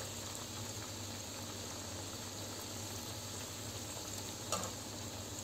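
Onion bondas deep-frying in hot oil: a steady bubbling sizzle. A light tap about four and a half seconds in.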